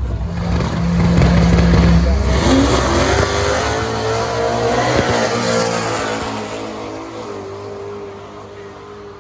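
Drag race car running down the strip at full throttle: a loud steady engine note for about two seconds, then the pitch rises as it pulls away, and the sound fades over the last few seconds.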